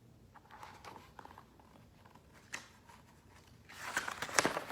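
Paper pages of a picture book being handled and turned: faint rustling and a click, then a louder rustle of paper near the end.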